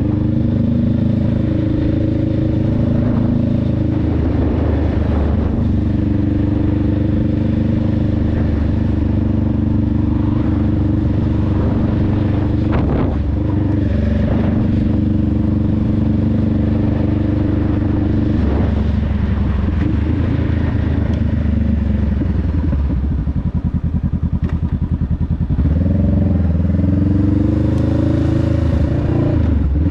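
Honda Rebel 500's parallel-twin engine and exhaust under way, running steadily with shifts in pitch. About 23 seconds in it drops for a couple of seconds to a low, slow pulsing, then the revs climb again near the end.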